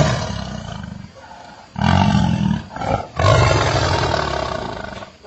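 An animal's three loud, deep calls, each fading away, the last the longest.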